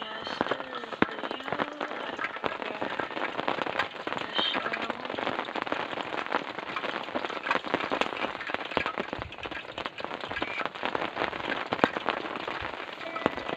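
Heavy rain falling, a dense steady patter of drops striking a nearby surface.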